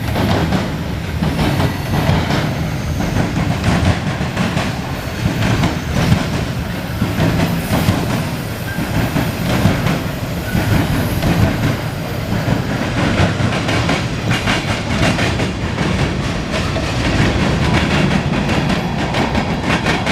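Norfolk Southern mixed freight train passing close by: a steady loud run of freight cars with wheels clacking over the rail joints.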